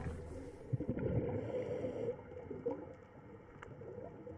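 Faint underwater gurgling and bubbling of water, with a few soft clicks.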